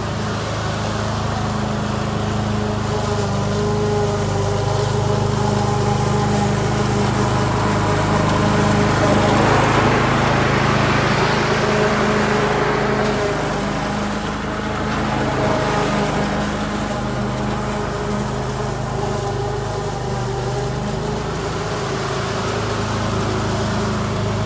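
Petrol lawn mower engine running steadily under load. Its sound swells louder and noisier for a few seconds around the middle, then settles back.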